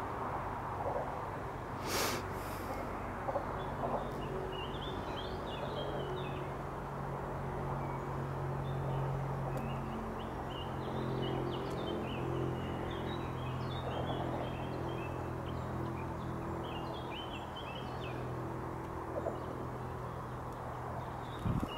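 Small songbirds chirping and singing over a steady low hum, with a sharp click about two seconds in.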